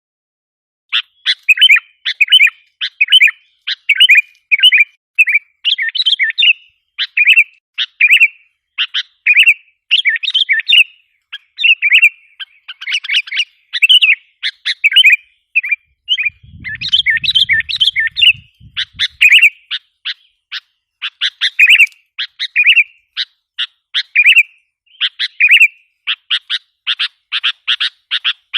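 Sooty-headed bulbul (kutilang) calling continuously: quick chirps and short bubbly phrases, a lure call used to draw in wild bulbuls. A brief low rumble sits under the calls partway through.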